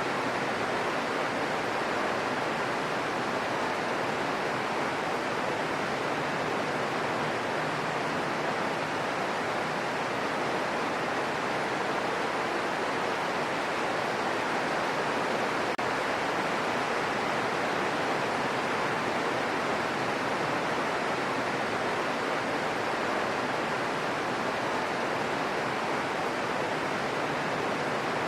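Steady gentle rain, an even hiss without single drops standing out.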